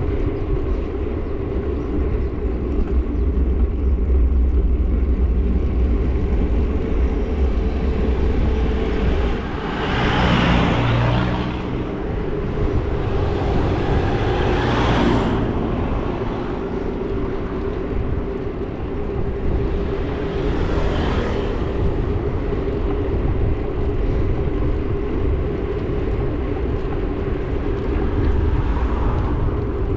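Motorbike engine running steadily under wind and road noise, with other vehicles passing three times: about a third of the way in, halfway through, and about two thirds in.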